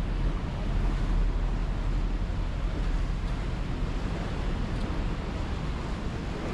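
Wind buffeting the microphone on an open boat deck: a steady low rumbling rush with no distinct events.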